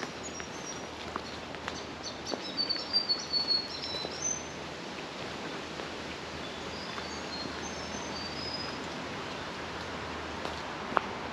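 Small birds calling in rainforest: a quick run of short, high chirps about two seconds in, then fainter high notes further on, over a steady hiss of background noise. A couple of footstep ticks near the end.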